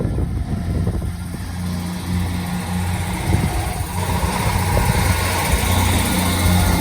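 Diesel train approaching: a steady low engine drone, with wheel and rail noise building louder from about halfway through.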